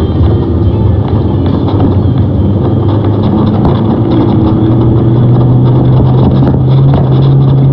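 Vehicle engine heard from inside the cab, accelerating: its pitch rises steadily as the vehicle speeds up, over steady road and tyre noise.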